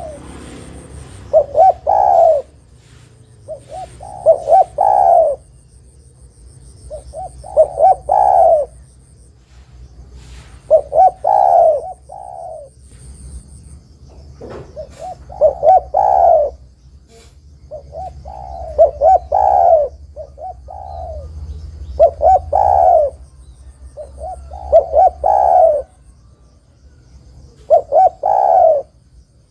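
Spotted dove (tekukur) singing its cooing song: short phrases of two or three quick coos ending in a longer one, repeated about every three seconds. A faint high buzz comes and goes behind it.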